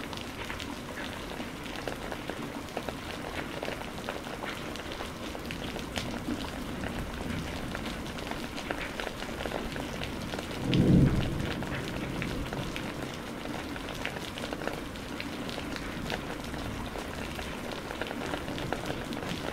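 Steady rain falling, full of fine drop patter. About eleven seconds in comes one short low rumble of thunder, the loudest sound here.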